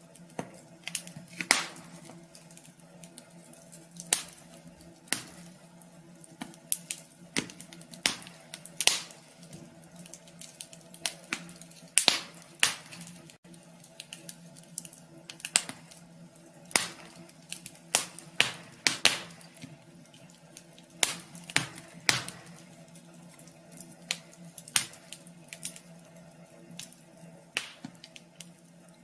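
Wood fire crackling in a wood stove: irregular sharp pops and snaps of varying loudness, over a steady low hum.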